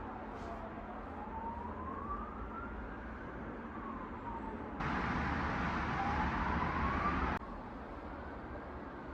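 Distant emergency-vehicle siren wailing, its pitch rising and falling slowly over about two seconds each way, over steady background hum. About five seconds in, a louder rush of noise cuts in abruptly and stops just as suddenly some two and a half seconds later.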